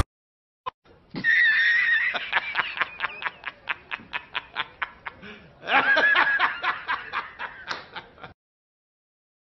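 A person laughing in two bouts, each opening with a high held note and breaking into a fast run of short chuckles that fade away.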